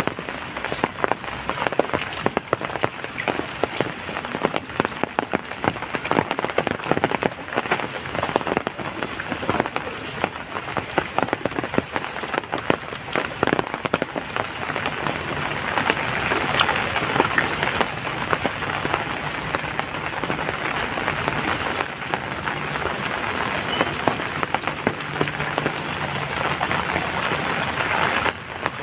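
Heavy rain falling, with many separate drops striking close by; it grows a little denser and louder about halfway through.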